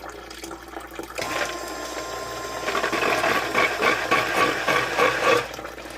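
A 12-volt, 1,100-gallon-per-hour bilge pump, battery-powered as a backup sump pump, switches on about a second in. Its small motor whines steadily while water churns and pulses through it, growing louder, and it cuts off abruptly near the end after running about four seconds. The pit has been pumped down to the float-switch cut-off.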